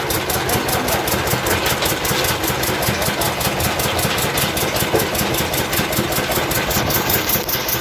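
Engine driving a palm fruit milling machine, running steadily with a fast, regular beat.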